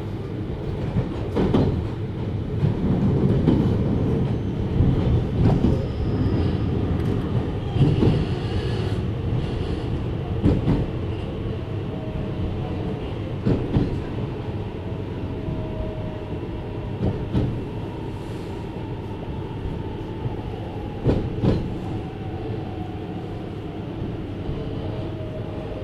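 JR Hokkaido 733 series electric train heard from inside the car while running. The wheels give a steady rumble, with irregular clicks over the rail joints and a faint steady whine.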